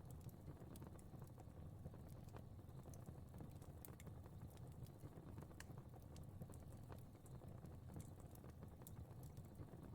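Fire crackling faintly: irregular small pops and ticks over a low steady rumble.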